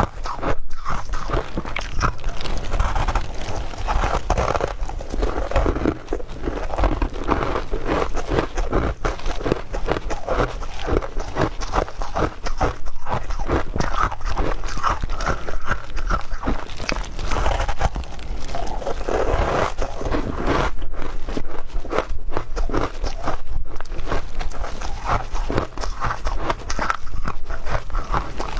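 A person biting and chewing ice, with continuous irregular crunching and crackling.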